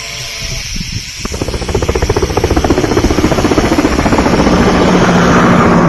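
Helicopter rotor beating rapidly over a hiss, growing louder from about a second in.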